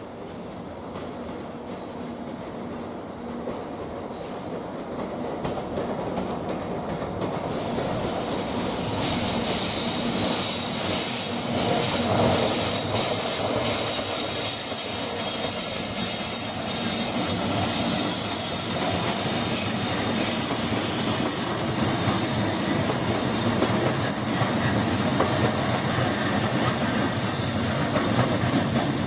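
EF64 DC electric locomotive hauling a short rake of new E235 electric-multiple-unit cars through the station, growing louder over the first ten seconds as it comes in, then passing steadily. The wheels clack over the rail joints, with a high wheel squeal from about nine seconds in.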